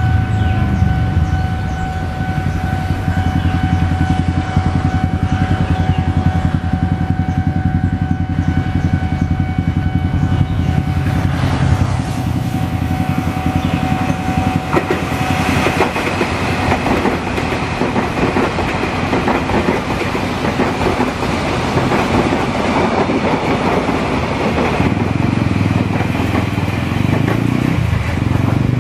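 Tokyu Series 8500 electric commuter train passing over a level crossing, its wheels and motors making a broad rumble and hiss that swells about halfway through. A steady warning tone sounds over it for the first half and stops about halfway.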